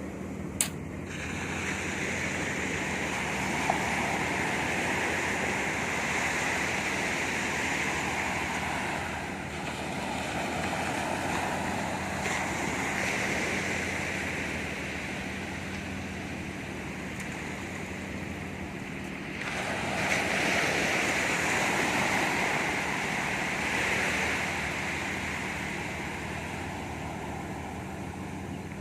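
Sea waves breaking and washing up on a beach, swelling louder and fading away again every several seconds. A sharp click sounds about half a second in.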